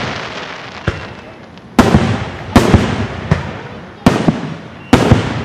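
Fireworks exploding in a rapid series of loud, sharp bangs, roughly eight in five seconds, each trailing off into a fading rumble.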